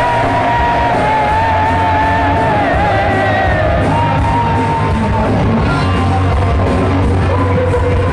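Live heavy metal band playing loud, with a male singer holding long, slightly wavering high notes over the guitars and drums.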